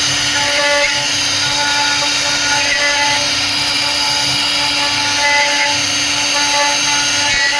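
CNC router spindle running with a steady high whine as it carves wood.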